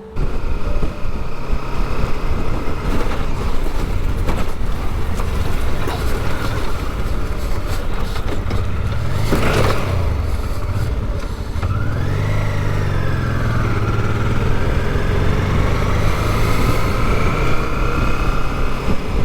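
Honda Deauville V-twin motorcycle engine running under a steady rush of riding noise. There is a loud burst of noise about nine and a half seconds in, and the engine rises and falls in pitch around twelve seconds in, as the bike slides near the edge of the road.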